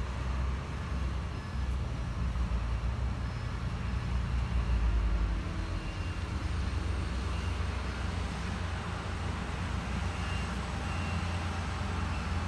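Heavy diesel earthmoving machine engine running with a steady low rumble, swelling briefly about four to five seconds in.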